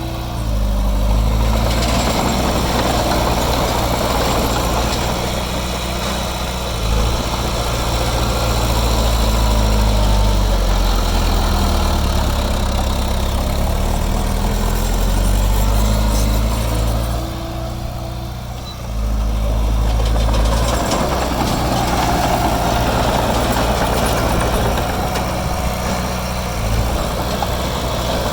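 Heavy diesel engine of earthmoving machinery working, its pitch rising and falling with the load. It eases off briefly about two-thirds of the way through, then picks up again.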